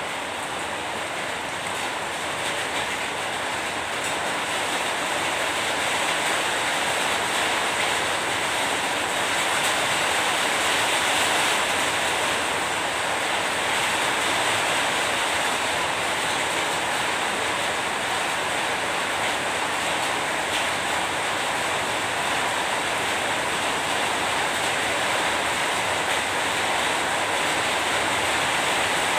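Steady heavy rain falling, an even hiss that swells slightly over the first several seconds and then holds.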